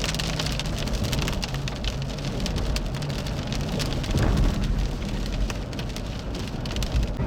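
Rain striking a vehicle's roof and windshield: a dense, rapid ticking of drops over the steady low rumble of the vehicle.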